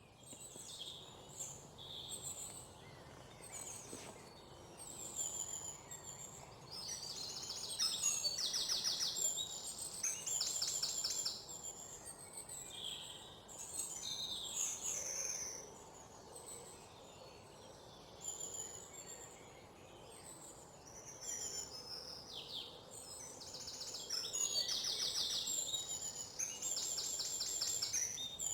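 Several birds calling and singing: scattered high chirps and whistles, with fast trills of rapidly repeated notes that are loudest around a third of the way in and again near the end.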